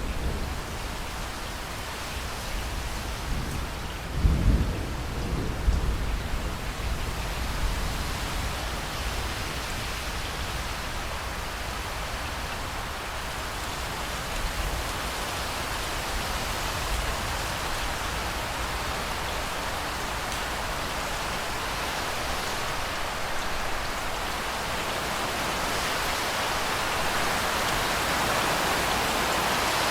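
Steady rain falling, with a low rumble of thunder about four seconds in. The rain grows louder toward the end.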